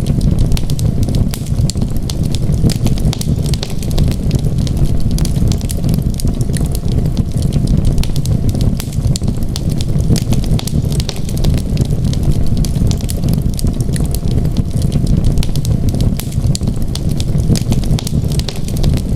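Wood fire in a fireplace crackling, with dense, irregular small pops and snaps over a steady low rumble.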